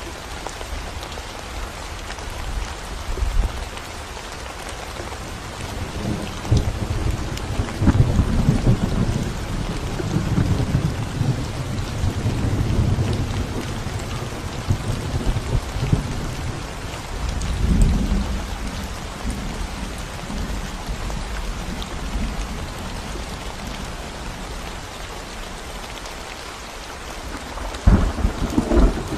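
Steady rain falling on a concrete road, a continuous hiss of drops. Low rolling rumbles of thunder swell and fade from about six seconds in, again a little past the middle, with a sharper one near the end.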